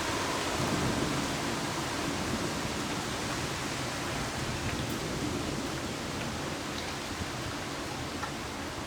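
Heavy thunderstorm rain pouring down in a steady hiss, easing slightly toward the end.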